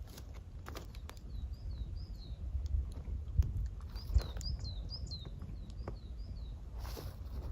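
A small forest bird singing two runs of short, quick, repeated chirps over a low outdoor rumble, with scattered sharp clicks and two louder thumps in the middle.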